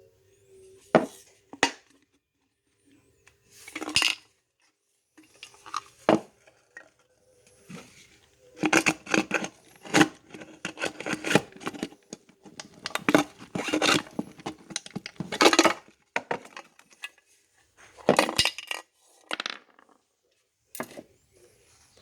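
Metal clinking and rattling from the parts of a cut-open spray paint can: a few separate knocks, then a long stretch of quick rattling clicks about a third of the way in, then a few more knocks near the end.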